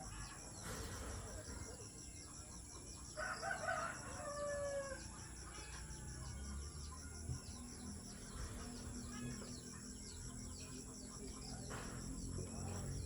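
A rooster crowing once, about three seconds in, a call of roughly a second and a half that falls in pitch at its end.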